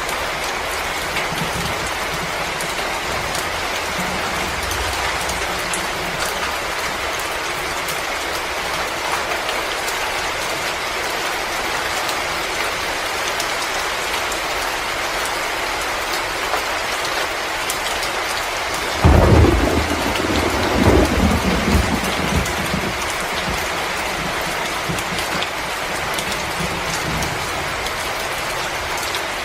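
Fireplace crackling over a steady hiss of blizzard wind, with a low rumble swelling up for a few seconds about two-thirds of the way in.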